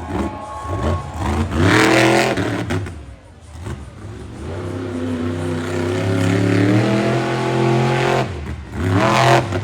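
Monster truck's supercharged V8 engine revving hard: a short rev about two seconds in, a brief drop, then a long high rev held from about halfway until near the end, and one more quick rev at the very end.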